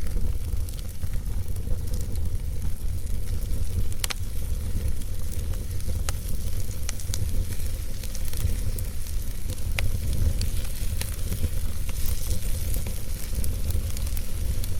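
Wood fire burning in a fireplace: a steady low rumble and hiss with scattered crackles and small pops, one sharper pop about four seconds in.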